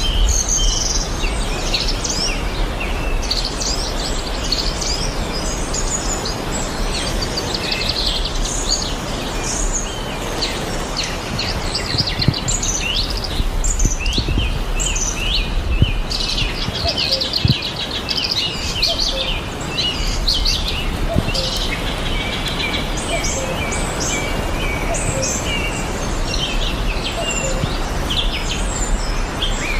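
Several cockatiels chirping and calling over one another in quick, short notes, with a steady low hum and noise underneath.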